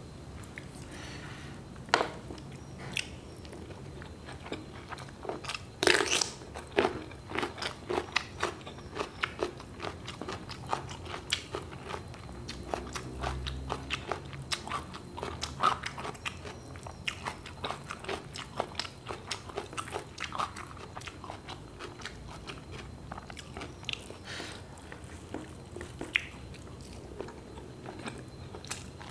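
Close-miked chewing and biting as a person eats rice, fried long eggplant and omelette by hand, picked up by a lapel microphone. Irregular wet mouth clicks and sharp crunchy bites come throughout, the loudest crunch about six seconds in.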